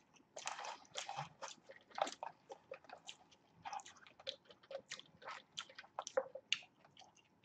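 Close-miked chewing and biting of fast food: a string of soft, irregular mouth clicks and small crunches.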